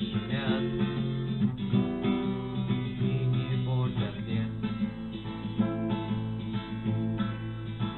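Acoustic guitar strummed steadily, playing chords as a song accompaniment.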